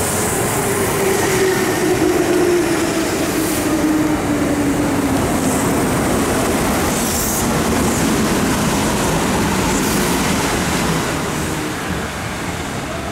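Kintetsu electric commuter train running past along the platform, with a steady rumble of wheels on rail and a motor whine that falls slowly in pitch. A few short high squeals come through, and the sound fades near the end as the last cars go by.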